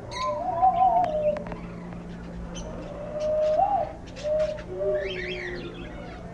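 Doves cooing, a string of low coos, some overlapping, with brief high chirps from other small birds, a cluster of them about five seconds in.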